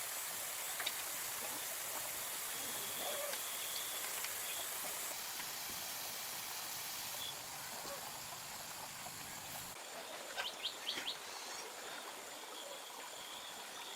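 Steady outdoor hiss with faint, scattered bird chirps, and a quick run of short chirps or clicks about ten and a half seconds in.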